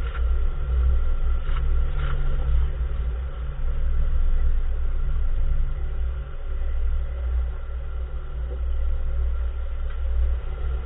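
Steady low rumble of a Nissan March small car on the move, with a few faint short knocks, about a second and a half and two seconds in and again near the end. The knocks fit the unexplained clunk from the front wheel that the owner is trying to trace.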